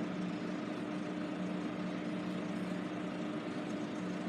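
A steady mechanical hum with two constant low tones over an even rushing noise, holding the same level throughout.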